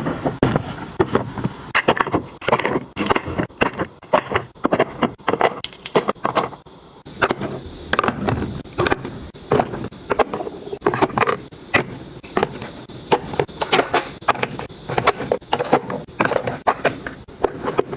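Items being handled and set down while organizing: a steady run of light clicks, taps and knocks, several a second.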